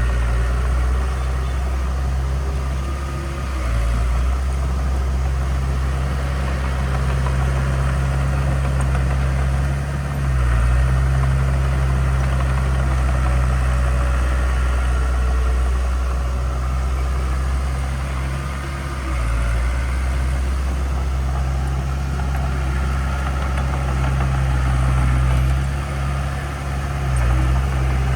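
Heavy diesel engine of earthmoving equipment, a bulldozer or dump truck, running steadily with a deep hum. Its pitch shifts briefly a few times as the load changes.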